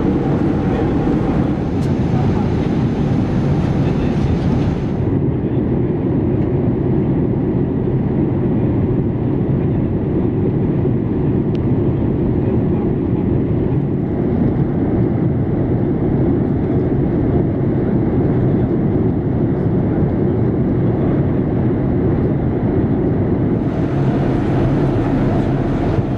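Steady cabin noise inside a Boeing 787-8 airliner: an even, low rush of airflow and engine noise.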